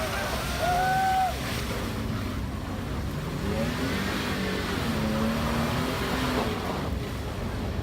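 Small pit-bike engines revving and dropping in pitch over steady crowd noise.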